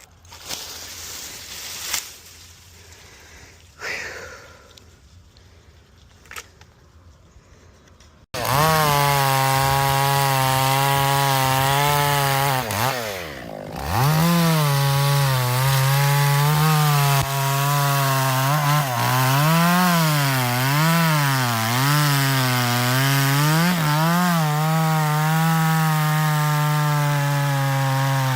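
A quiet stretch with a few scattered knocks, then about eight seconds in a two-stroke chainsaw cuts in loud and abruptly, running at high revs with its pitch wavering up and down as it cuts. Around thirteen seconds in the revs drop sharply, then climb back.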